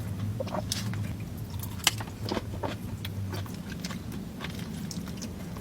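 Close-up eating sounds: biting and chewing with many short, crisp crunches and crackles, over a low steady hum that stops about three and a half seconds in.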